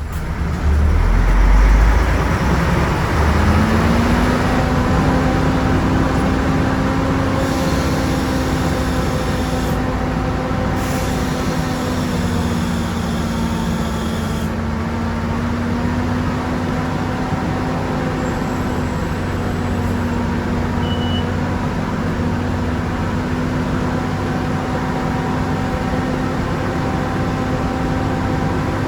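Volvo B10M bus's mid-mounted six-cylinder diesel engine pulling away under load: a heavy rumble at first, then its pitch climbs about three seconds in and it runs steadily. A high-pitched whine sounds over it for several seconds in the middle.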